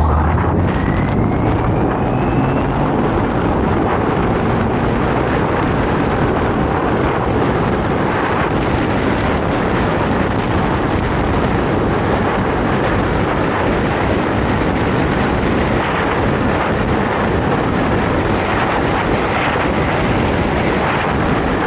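Loud, steady wind rush buffeting the microphone on a moving motorcycle, mostly covering the engine, with a faint rising whine in the first few seconds.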